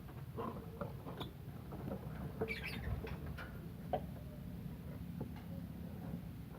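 Lovebirds giving short, high squeaky chirps and clicks, with a louder burst of squawks about two and a half seconds in.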